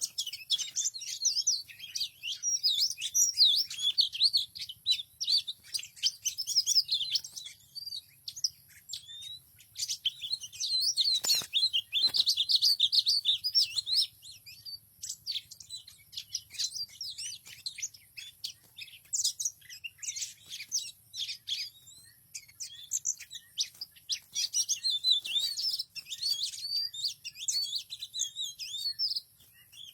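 Small birds chirping and twittering rapidly, many short high chirps overlapping, with two sharp clicks about eleven and twelve seconds in.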